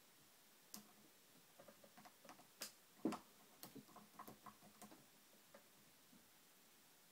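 Faint, irregular clicks and small metallic ticks of a lock pick and tension wrench working the mushroom security pins of a TrioVing oval pin-tumbler cylinder, the loudest click about three seconds in.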